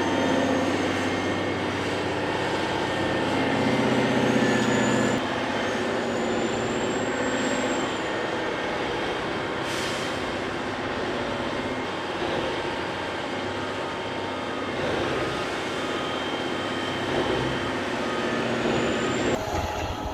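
Heavy diesel earth-moving machinery running steadily, with several high whines that rise and fall. The sound changes abruptly about five seconds in and again near the end.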